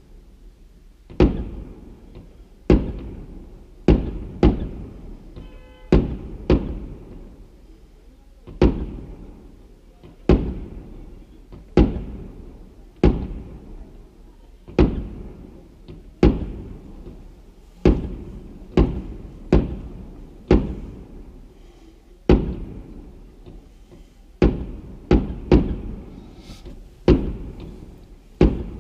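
Aerial fireworks going off in a steady series of loud bangs, about one every second or so and sometimes two in quick succession, each followed by an echoing tail.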